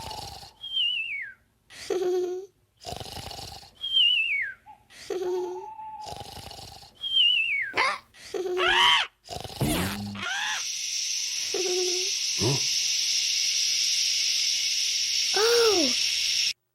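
Comic sound effects: a short low hoot followed by a falling whistle, repeated about every three seconds, then a steady hiss for the last six seconds with a brief rising-and-falling glide over it.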